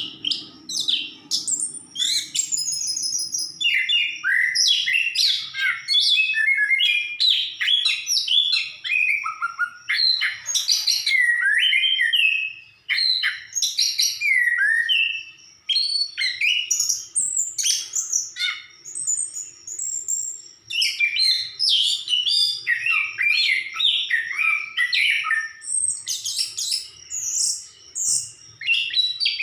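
Chestnut-capped thrush (anis kembang) in full song: a fast, varied, almost unbroken run of whistles, slurred rising and falling notes and twitters, with two brief pauses about midway.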